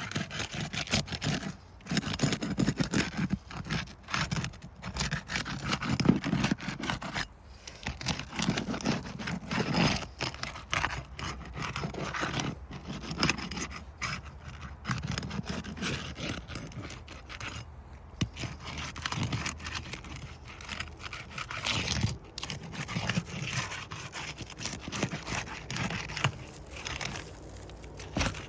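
Irregular scraping and crackling as an asphalt roof shingle's tabs are pried loose and broken free of their sealant strip, with brief pauses between strokes.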